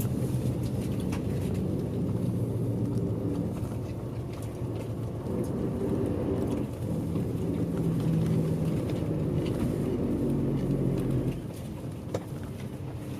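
Bus engine and road noise heard from inside the coach while it drives, the engine note shifting with throttle. It drops noticeably quieter about eleven seconds in, as the engine comes off load.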